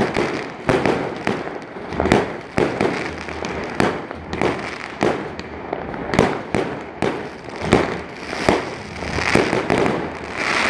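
Aerial fireworks going off overhead in quick succession: sharp bangs at irregular spacing, about two or three a second, with crackling between them.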